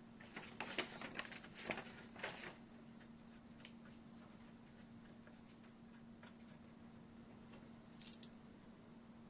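Light clicks and scrapes of small hard objects being handled for about two seconds, then a faint steady hum, with a few more clicks near the end.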